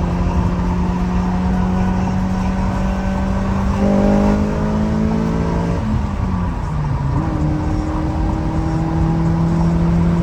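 Honda Prelude's four-cylinder engine running under load while driving. It gets louder and busier about four seconds in, drops in pitch about six seconds in, then climbs steadily again.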